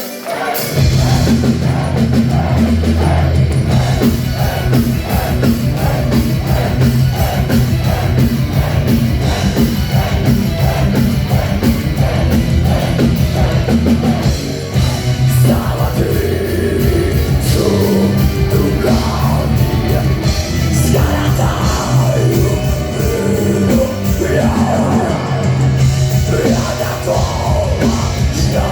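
Heavy metal band playing live with a singer: dense, loud band sound with drums. It comes in at full level about half a second in, after a short lull.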